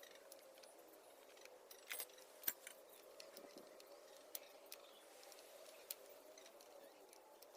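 Faint, scattered metallic clinks and clicks of tools and scooter parts being handled, the loudest about two and a half seconds in, over a low steady hum.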